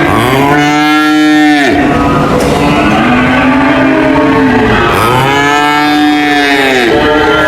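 Cattle mooing: a string of long, loud moos, about four, one right after another, each swelling and falling in pitch.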